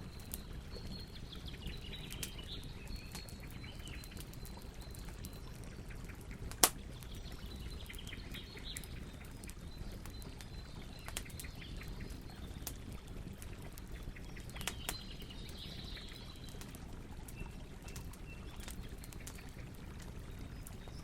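Campfire crackling and popping over a low steady rumble of flames, with one sharp, loud pop about six and a half seconds in. Birds chirp faintly in the background in a few short spells.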